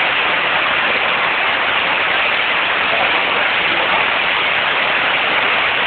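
Steady rushing of storm runoff, water mixed with mud and sewage, pouring down a street like a waterfall.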